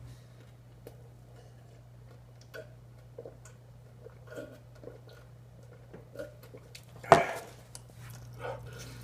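A person eating: small clicks and soft mouth and handling noises over a steady low hum. About seven seconds in there is one loud, sudden sound that lasts a fraction of a second.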